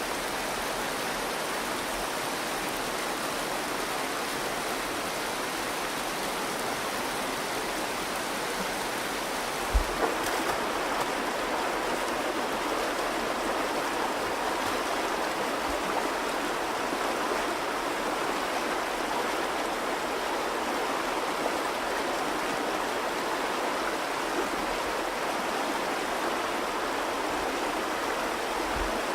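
The Virgin River flowing in a steady, even rush of water, with a brief low knock about a third of the way through.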